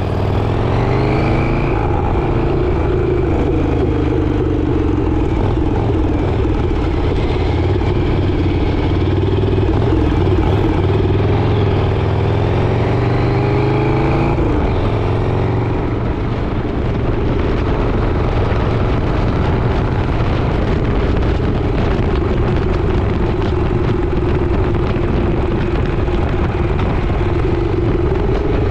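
Motorcycle engine under way, climbing in pitch as it accelerates, with a gear change about halfway through and then a steady cruise, over rushing wind noise.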